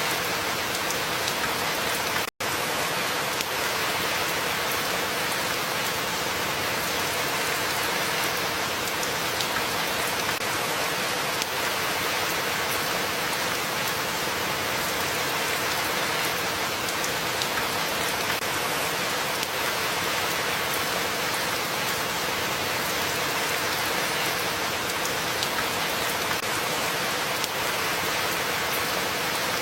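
Steady, heavy rain falling, with a continuous hiss of drops, broken by a momentary silent gap about two seconds in.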